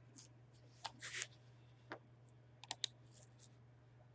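Scattered clicks and taps of a computer keyboard and mouse, with a steady low electrical hum underneath.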